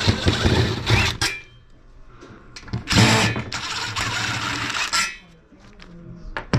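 Cordless drill backing screws out of a medical bed frame, running in two spells: about the first second, then again for about two seconds in the middle.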